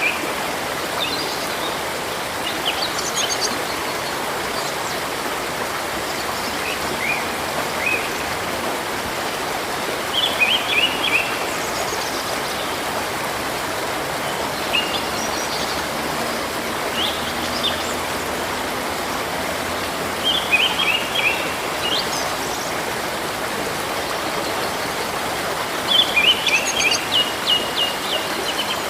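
Flowing stream rushing steadily, with small songbirds chirping in short trills and twittering phrases every few seconds over it, the busiest run near the end.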